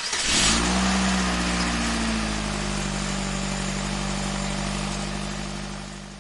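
Car engine starting, then idling steadily, the sound fading out near the end.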